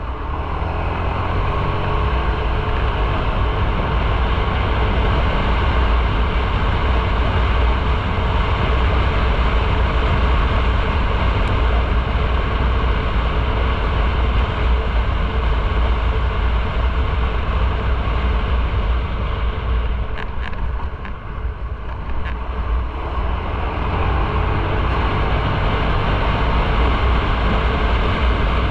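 Motorcycle on the move: steady wind rush and rumble on the microphone over engine and road noise. It eases briefly about three-quarters of the way through, with a few light clicks, then picks up again.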